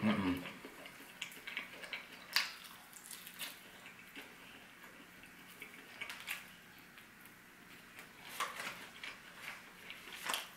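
Someone chewing a chicken wing close to the microphone: scattered small mouth clicks and smacks, with short pauses between them.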